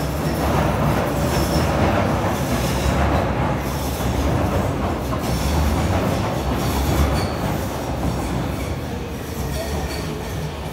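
Passenger train running on the rails: a loud, steady rail noise that comes up sharply at the start and eases a little toward the end, with a few faint high squeals from the wheels.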